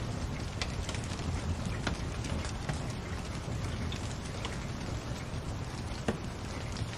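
Wood fire crackling: a steady hiss broken by a few scattered sharp pops.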